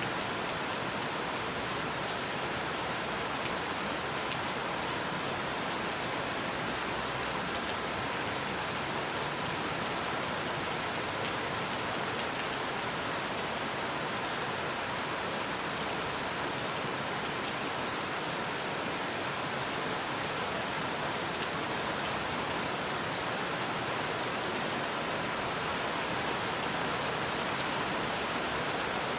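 Steady rain falling: an even hiss with many fine, quick drop ticks, holding the same level throughout.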